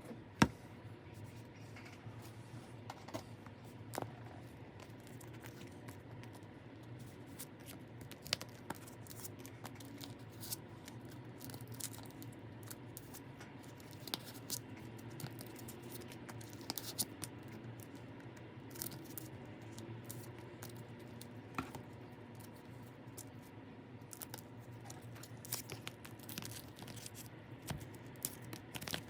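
Hands unboxing, tearing and handling packaging: scattered clicks, rustles and scrapes, with one sharp click just after the start, over a steady low hum.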